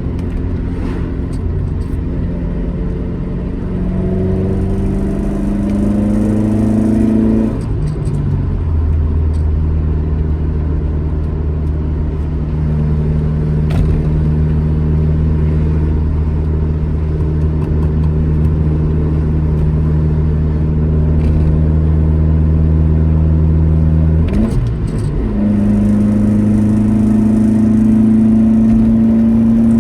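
Alfa Romeo GT Junior's twin-cam four-cylinder engine under way. It pulls up in pitch under acceleration, drops sharply at a gear change about eight seconds in, and runs at a steady cruise. About 25 seconds in, a quick flick of revs leaves it at a higher note that climbs slowly again, like a downshift.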